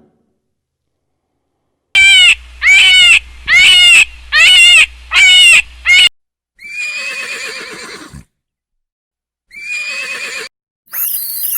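An animal calling: after a pause, a quick series of six short, high-pitched calls, then two longer, rougher calls and a brief high sound near the end.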